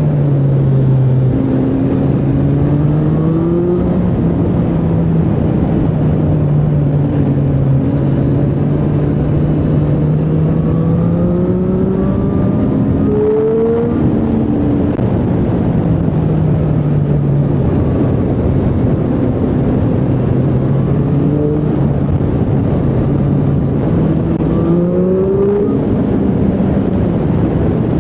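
Triumph Street Triple 765R's inline three-cylinder engine running under way, its revs rising and falling. Twice, about halfway through and again near the end, the pitch climbs and then drops suddenly.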